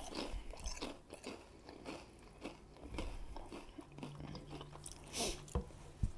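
Close-miked chewing of food, with irregular wet mouth clicks and smacks. There is a short breath of noise a little after five seconds, and two sharper clicks near the end.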